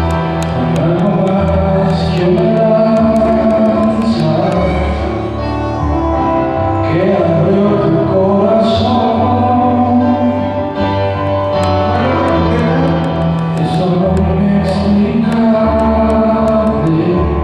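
Church worship music: voices singing a slow song over held keyboard chords and a steady bass.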